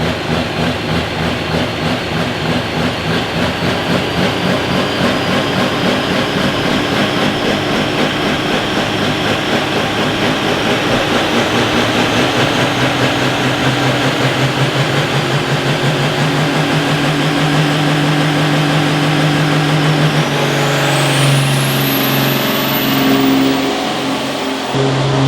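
Engine of a pulling vehicle at a truck and tractor pull, running hard and held at high revs with a steady, pulsing note. A thin high whine climbs slowly throughout, then rises sharply near the end.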